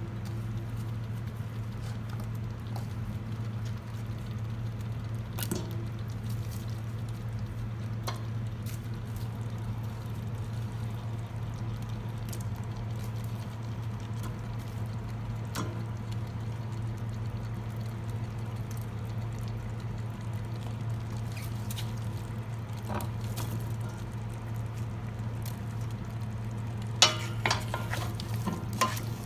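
A steady low hum with occasional faint clicks, then a short clatter of kitchenware, a quick run of sharp clicks and knocks, near the end.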